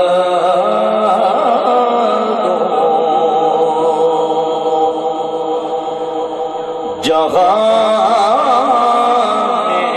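A man singing a naat in Urdu without instruments, drawing out long wavering notes; the line breaks off about seven seconds in and a new phrase begins.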